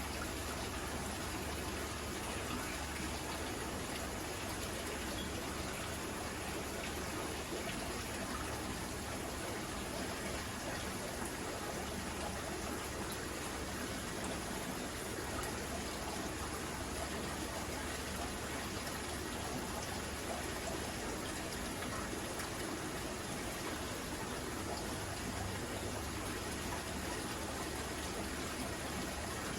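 Steady trickling and splashing of circulating water in a large aquarium.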